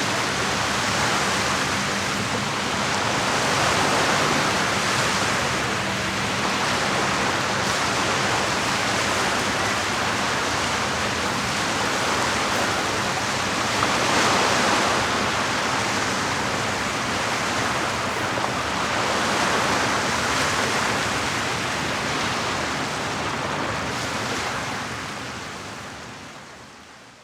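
Lake water lapping and washing against the shore in a steady, gently swelling rush, with a faint low hum underneath in the first half. The sound fades out near the end.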